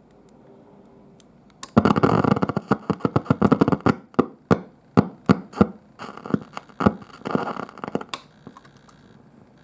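Marshall DSL1C guitar amp giving out loud, irregular crackling and sharp pops through its speaker instead of a proper sound. It starts about two seconds in and cuts off suddenly near the end. The noise is the sign of the amp's fault: a tube sparking and glowing abnormally.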